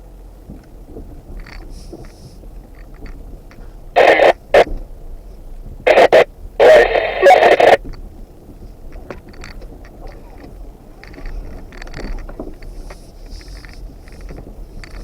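Steady low vehicle running noise on a trail, broken by two loud harsh bursts that start and stop abruptly: a short one about four seconds in and a longer one of about a second and a half a little later.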